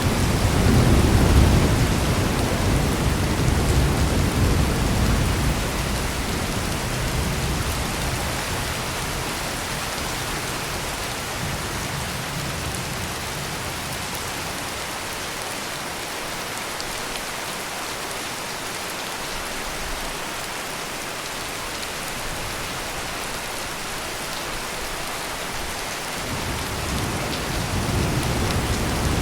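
Heavy rain pouring steadily, with a rolling thunder rumble in the first few seconds that dies away; more thunder starts to build near the end.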